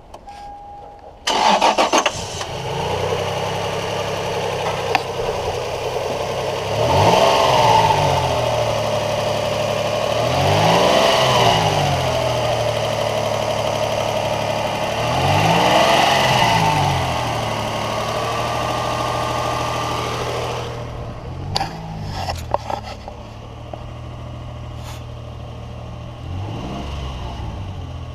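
Toyota Tacoma 3.4-litre V6 engine starting just over a second in, then idling and being revved up and back down several times, three large revs followed by smaller blips.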